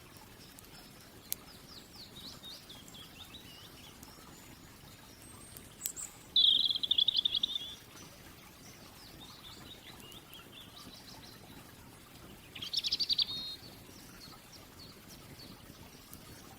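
Songbirds singing: two loud rapid trills, about six seconds in and again near the end, with fainter falling song phrases between them. Two single sharp clicks stand out over a soft steady background hiss.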